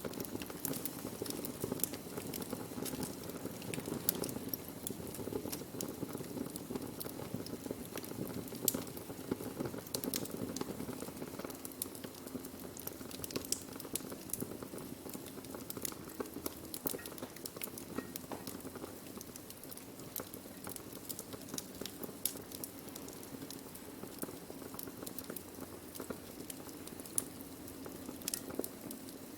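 Wood fire burning: a steady low rush from the flames with frequent, irregular sharp crackles and pops from the burning wood.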